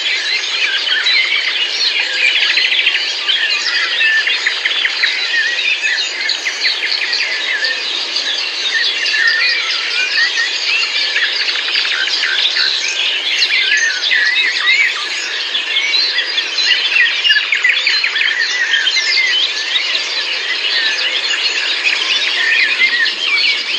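Many songbirds singing and chirping at once in a dense, unbroken chorus of short overlapping high calls.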